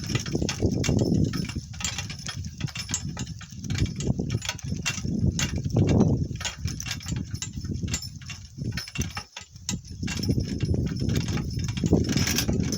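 Donkey-drawn cart on the move: the cart rattling and knocking irregularly, with the donkey's hoofbeats, and a brief lull about nine seconds in.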